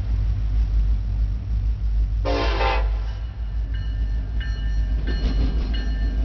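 Ferromex EMD diesel freight locomotives approaching and passing close, with a steady low rumble. One short horn blast sounds about two seconds in, and thin high-pitched squeals come and go near the end.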